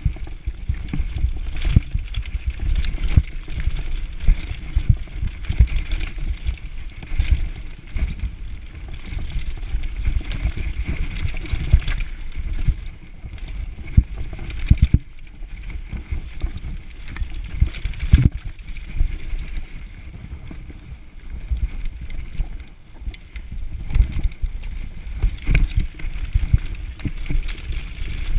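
Mountain bike riding down a dirt downhill trail: a steady low rumble of tyres on the ground, broken by frequent sharp knocks and rattles of the bike over bumps.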